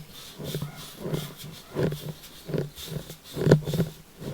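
A brush spreading rubber tire-patch cement over the roughed-up inside wall of a backhoe tire, in a run of short, irregular rubbing strokes, the loudest a little after three seconds in.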